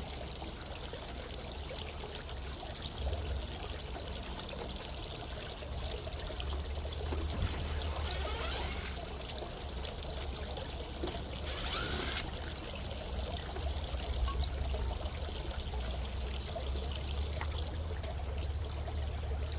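Steady outdoor background noise: a low rumble under an even hiss with a trickling, water-like quality, and two brief hissing sounds about eight and twelve seconds in.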